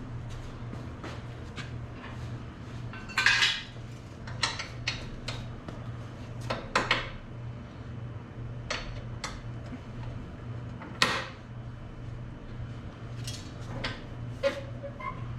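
Scattered metal clanks and clinks of tools and suspension parts being handled, a dozen or so separate knocks, the loudest about three seconds in and again about eleven seconds in, over a steady low hum.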